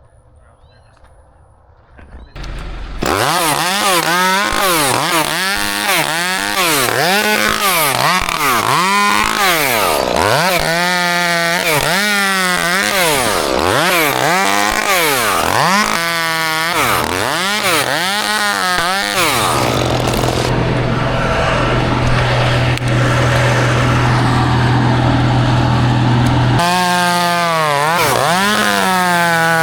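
Gas chainsaw coming in about three seconds in and revving up and down over and over, roughly once a second. Near the middle it holds a steady, lower pitch for about six seconds, then goes back to revving.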